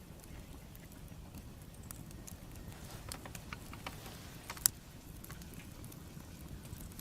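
Wood bonfire crackling: irregular small ticks and snaps over a low steady rumble, with one sharp pop a little past halfway.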